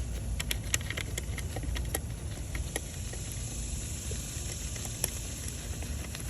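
Scattered light clicks and taps of small metal parts being handled while the ignition coil's hold-down screw is put back in, over a steady high-pitched drone of cicadas.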